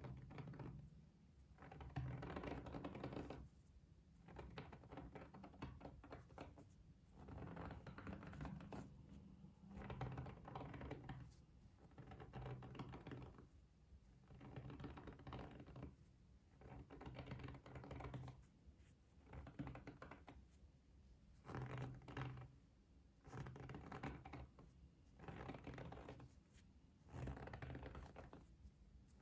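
Close-miked ASMR trigger sounds: soft bursts of fine crackly scratching, about one every two seconds.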